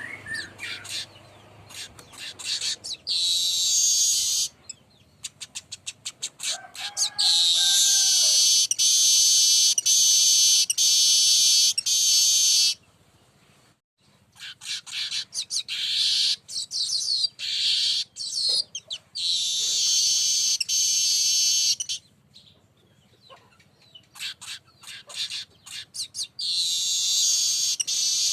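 Weaver birds (manyar) singing: bursts of rapid dry ticking that run into long, high, wheezy buzzing trills lasting several seconds, about five times over. A short lower whistle sounds once under the song about seven seconds in.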